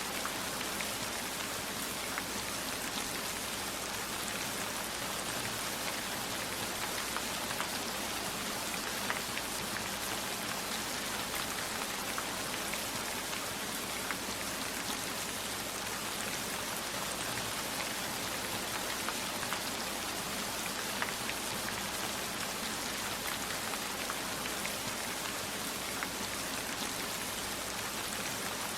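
Steady rain falling in an even hiss, with a few sharper single ticks scattered through.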